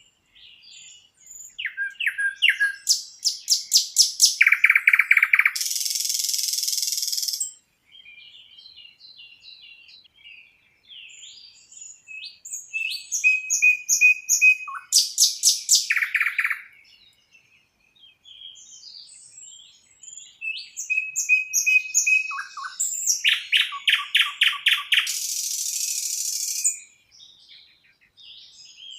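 A songbird sings the same song three times, about ten seconds apart. Each song is a run of fast repeated notes stepping down in pitch and ends in a harsh buzz. Fainter short chirps fill the gaps between songs.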